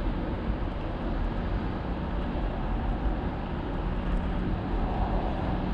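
Steady rumbling wind and rolling noise from a moving bicycle, with a low steady hum coming in about two seconds in.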